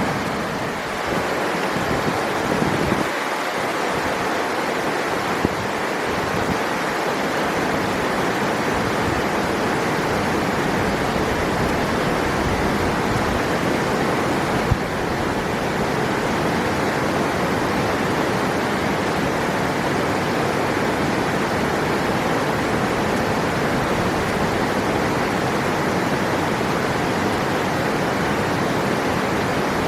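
River water rushing in a steady, unbroken wash of noise, with two brief clicks partway through.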